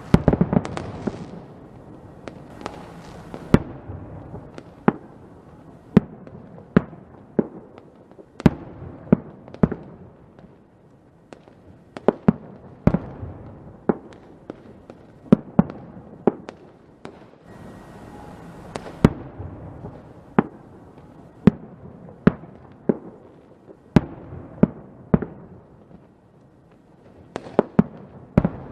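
Fireworks going off: a string of sharp bangs at irregular intervals, often less than a second apart, over a steady crackle and hiss, with a dense cluster of bursts at the very start.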